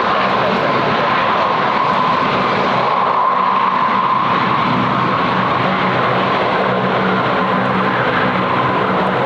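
Jet airliner engines running steadily: a constant rushing noise with a held whine.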